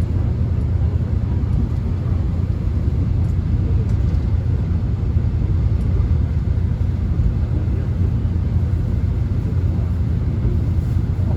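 Subway train cabin noise while the train is moving: a steady low rumble from wheels and motors running on the track, with a faint hiss above it.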